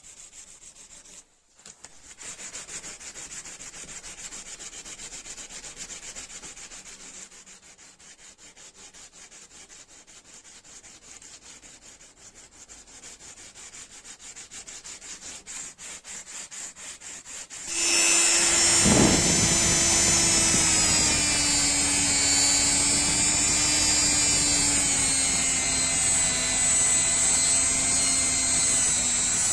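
A rusty steel wrench is rubbed by hand in quick, even strokes, as if sanding off rust, and the strokes speed up before stopping. About two-thirds of the way in, a small electric power tool starts abruptly and runs steadily with a high whine, its pitch dipping slightly.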